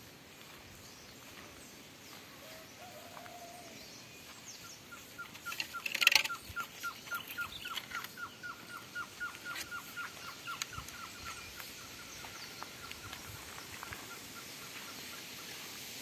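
A bird calling a long, even series of single whistled notes, about three a second, starting about five seconds in and fading toward the end. A sudden loud rustle comes about six seconds in.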